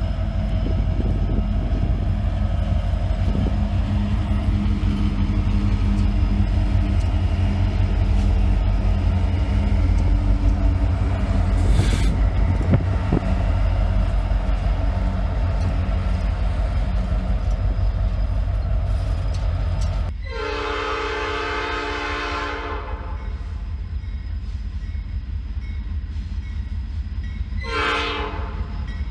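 Diesel locomotives passing with a heavy, steady low engine rumble. The multi-tone air horn then sounds one long blast about twenty seconds in and a short blast near the end.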